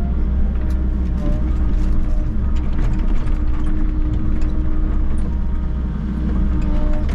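Volvo EC60E mini excavator's diesel engine running steadily under work, with repeated short clanks and rattles from the machine.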